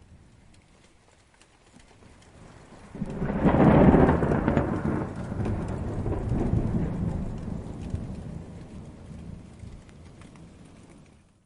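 A peal of thunder over light rain. It breaks suddenly about three seconds in, is loudest a second later, then rolls and fades over several seconds before the sound cuts off just at the end.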